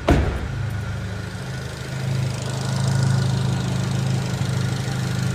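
Fiat 500 Abarth's 1.4 turbo petrol four-cylinder idling steadily with its new exhaust manifold gasket fitted, after a sharp knock right at the start.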